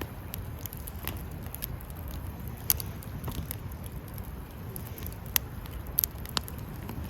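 Wood campfire crackling: irregular sharp pops and snaps, the loudest about two and a half, five and a half and six seconds in, over a low steady rumble.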